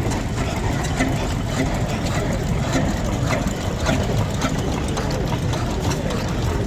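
An engine running steadily at idle with a low rumble, with scattered sharp clicks and ticks over it.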